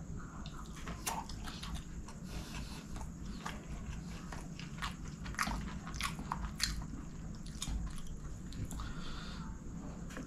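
Close-up chewing of a mouthful of fried rice eaten by hand, with many short, sharp wet mouth clicks and crunches scattered through it.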